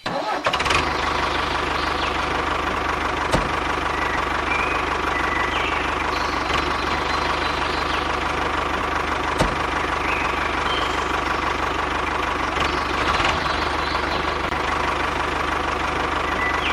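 An engine running steadily at an even speed, with two sharp clicks about three and nine seconds in.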